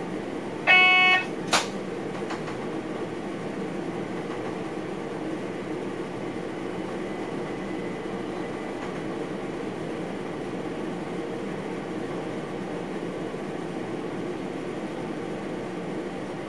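Train running steadily, heard from inside the driver's cab. About a second in there is a short loud electronic tone lasting about half a second, followed by a brief sharp click-like tone.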